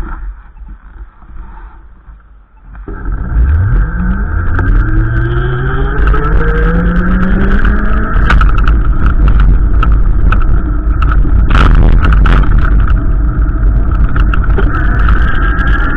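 A car engine accelerating, its pitch rising steadily for about five seconds after starting suddenly, over a heavy low rumble of wind on the microphone, with scattered clicks.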